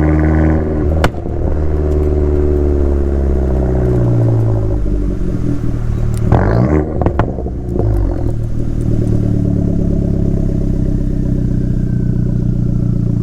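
Abarth 500's turbocharged 1.4-litre four-cylinder engine through an El Gato aftermarket exhaust with a 200-cell high-flow catalytic converter, driving. The revs fall at first with a sharp crack about a second in. Around six to eight seconds the pitch dips and rises again with several crackles, then the engine settles into a steady drone.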